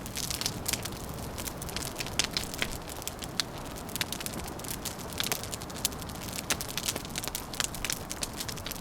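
Fire crackling, with frequent irregular sharp pops and snaps over a steady low rush.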